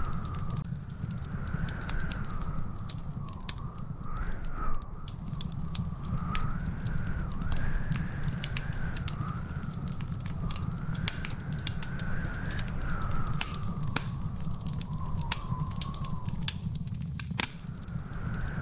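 Wood fire crackling: a dense run of sharp pops and snaps over a steady low rumble, with a faint wavering whistle-like tone running through it.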